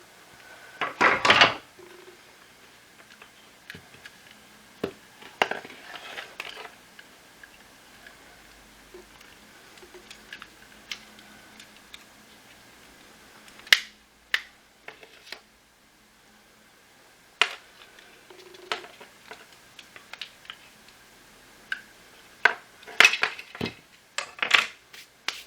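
Hard plastic parts of a Shark cordless stick vacuum being handled during disassembly: scattered clicks, knocks and short scraping rattles. The louder clusters of rattling come about a second in, around six seconds, and near the end.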